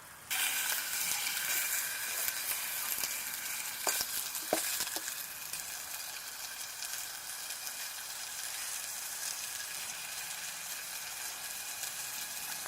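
Bacon frying in a buttered pan: a loud, steady sizzle that starts suddenly as the food goes into the hot pan, with a few sharp clicks of a utensil about four to five seconds in.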